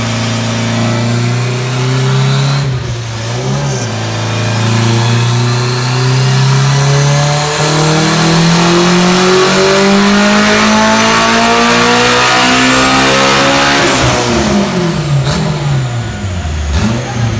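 Turbocharged Honda K20 four-cylinder in an AWD Integra making a full-throttle dyno pull, its pitch rising steadily for about ten seconds. Near the end the throttle closes and the revs fall sharply, followed by a few sharp clicks.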